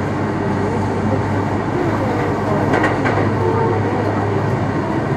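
Kintetsu electric train running at speed, heard from inside the passenger car: a steady rumble and hum of wheels and motors on the track, with a brief sharper clatter about three seconds in.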